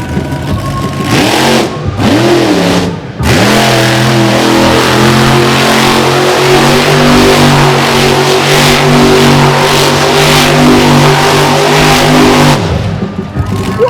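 Monster truck engine revving twice, then held at steady high revs for about nine seconds before it drops off near the end.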